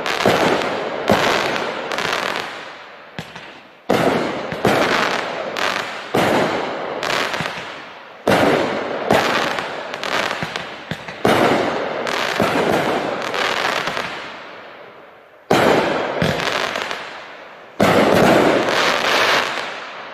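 A 20-shot, 200-gram consumer fireworks cake (Raccoon Brand Milk and Honey) firing in sequence: a loud shot-and-burst about every one to two seconds, each one trailing off before the next. The last bursts fade out near the end.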